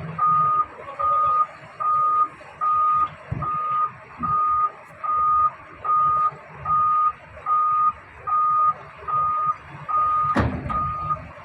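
Vehicle reversing alarm beeping steadily, one beep a little under every second, over a low diesel engine rumble; a single loud bang about ten seconds in.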